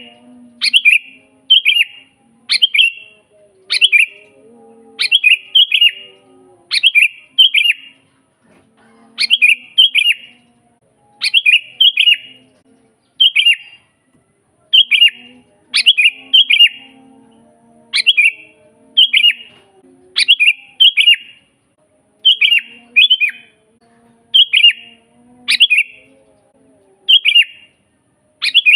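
Sooty-headed bulbul (kutilang) singing: short, bright phrases of a few quick notes, repeated about once a second, with a couple of brief pauses.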